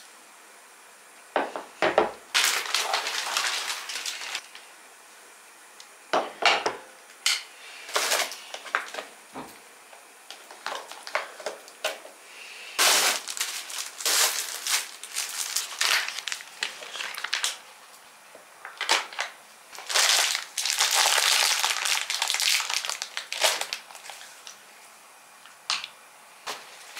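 Household handling sounds: clinks and knocks of dishes and objects being picked up and set down, with stretches of rustling and scraping in between.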